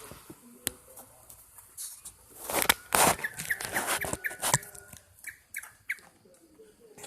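Yellow-vented bulbul calling in short, quick chirps, with a few louder noisy bursts about a third of the way in.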